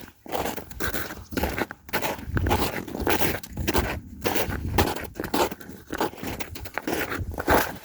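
Footsteps crunching in snow at a walking pace, about two steps a second.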